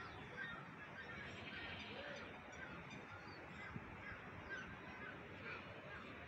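Birds calling: many short, high chirps scattered throughout, with one lower, arching call about two seconds in.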